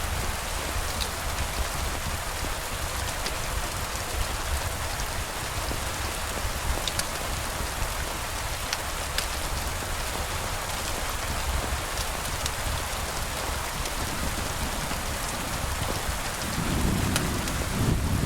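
Steady rain with scattered sharp drop ticks. A low rumble of thunder starts near the end.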